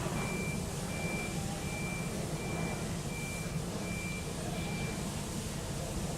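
A vehicle's reversing alarm beeping a single high tone about once every three-quarters of a second, stopping about five seconds in, over a steady low hum.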